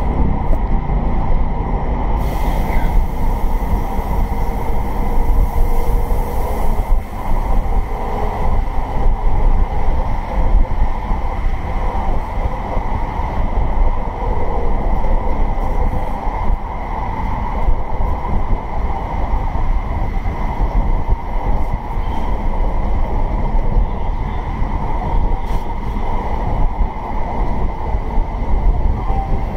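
Steady running rumble of a moving passenger train, heard from inside the carriage.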